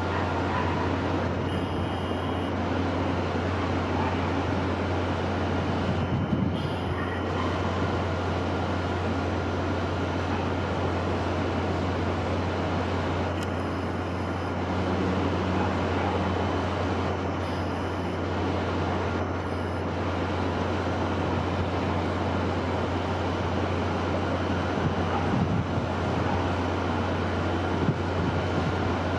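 Steady wind noise with a constant low rumble underneath.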